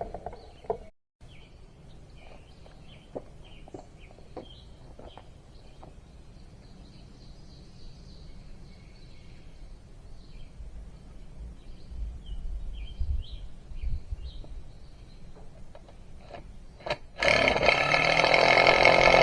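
Faint birds chirping over quiet outdoor background, with a few light clicks. About seventeen seconds in, a loud, steady sound with many even tones starts suddenly and keeps going.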